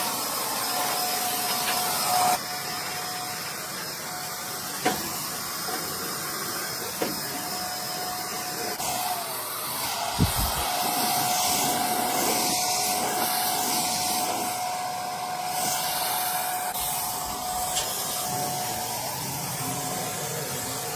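A small motor-driven tool running steadily with a whirring hiss and a steady hum, with a few sharp clicks and knocks during the run.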